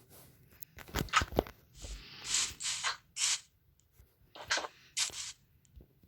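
Irregular handling noises: a few sharp clicks and knocks, then several short scraping or rubbing sounds.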